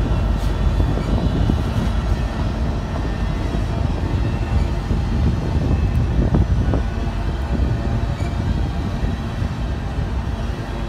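Covered hopper cars of a long freight train rolling past, a steady rumble of steel wheels on rail, with a couple of sharper clacks a little past the middle.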